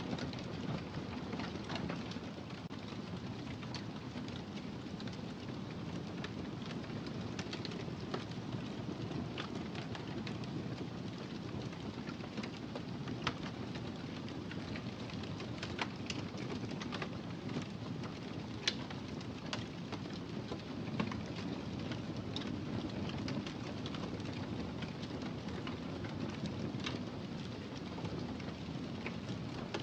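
Wood fire burning in a fireplace: a steady low rumble with frequent sharp crackles and pops scattered through it.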